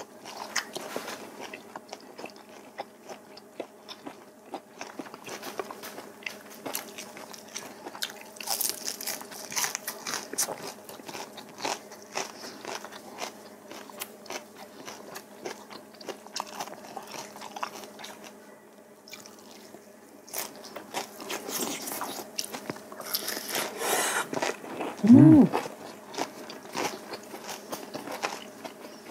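Close-miked eating: biting and chewing of steamed kabocha squash and raw vegetables, with many small wet mouth clicks and smacks. About 25 s in comes a brief voice sound that rises then falls in pitch, the loudest moment.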